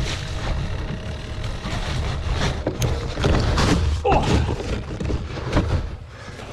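A gravel bike rolling over rough ground, with a run of rattles and knocks, while wind rumbles heavily on the microphone.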